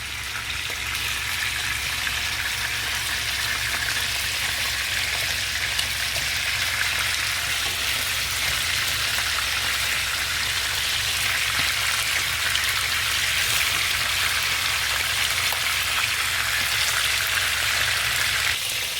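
Chicken pieces deep-frying in a pan of hot vegetable oil: a steady, even sizzle.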